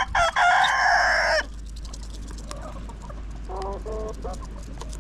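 A rooster crowing once, loud, breaking off about a second and a half in. A few short, softer clucks follow near the middle.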